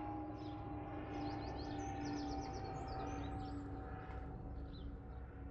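Songbirds chirping in quick runs of high notes over a steady low rumble, with a hum that slowly drops in pitch.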